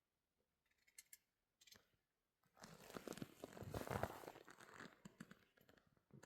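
A crackling, crinkling rustle lasting about two and a half seconds, loudest in the middle, with a few faint clicks before and after.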